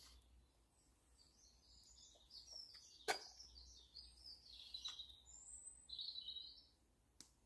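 Faint songbird song, a run of high chirps and warbles that stops shortly before the end, with one sharp click about three seconds in.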